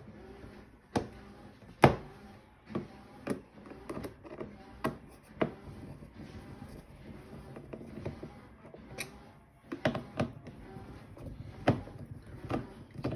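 A Phillips screwdriver backing screws out of a plastic battery-compartment cover: irregular sharp clicks and knocks of the tool and the plastic housing being handled.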